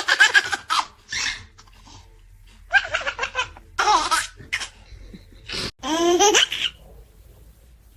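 High-pitched giggling laughter in four short fits: one at the start, two around the middle and a longer one about six seconds in.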